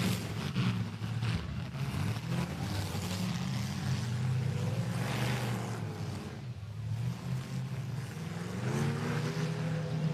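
Demolition derby car engines running and revving as the cars manoeuvre, the pitch rising again near the end.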